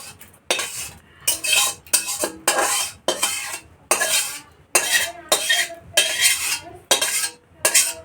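A metal spoon scraping around a cooking pan in about a dozen quick, uneven strokes, with faint ringing from the metal: the finished prawn curry being scooped out of the pan.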